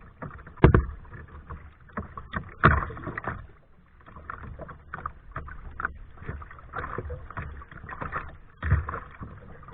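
Kayak paddling: irregular water splashing from paddle strokes, with a few sharp knocks, the loudest under a second in and others near three seconds and near the end.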